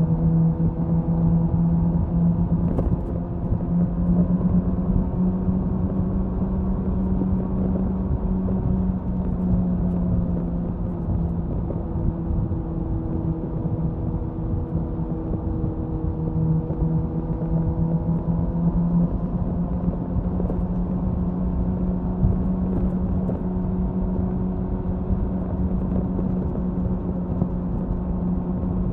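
Suzuki Hayabusa inline-four exhaust at a steady cruise, holding one steady engine note with small shifts in pitch, under heavy wind noise.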